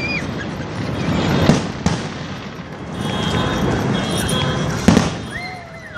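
Fireworks going off, a few sharp bangs with the loudest near the end, over the steady noise of a crowd.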